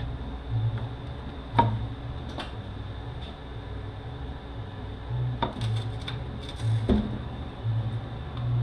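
Scattered clinks and knocks of tools and metal parts being handled during teardown of a Mercedes 722.9 automatic transmission, about four sharp ones spread over several seconds, over a low steady hum.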